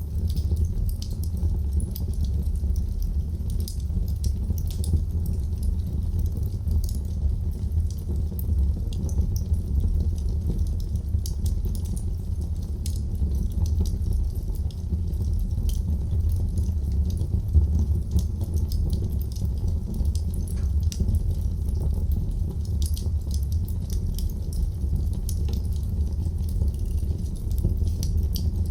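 Wood fire crackling in a fireplace: many small irregular snaps and pops over a steady low rumble of the flames.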